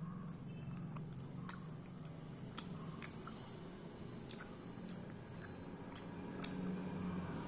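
Close-up chewing and biting of fried mussel meat (kallumakkaya), with sharp wet mouth clicks about twice a second, the loudest near the end, over a steady low hum.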